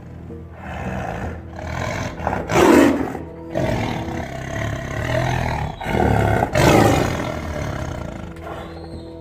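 Tiger roaring and growling in several loud bursts, the strongest about three seconds in and again near seven seconds, over background music.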